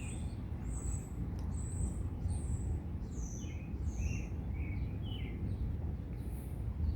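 Birds chirping: many short, high calls, some sliding down in pitch, repeated throughout over a steady low rumble.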